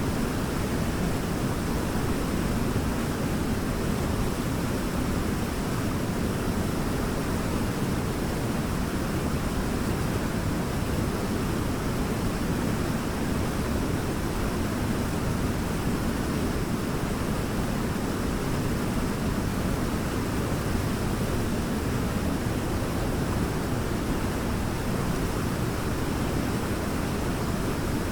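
Waterfall: a steady, unbroken rush of falling water, deepest in its low end.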